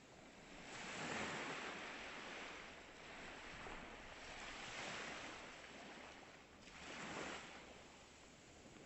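Ocean waves breaking and washing up onto the shore. Three swells of surf rise and fall back, the strongest about a second in and a short one near the end.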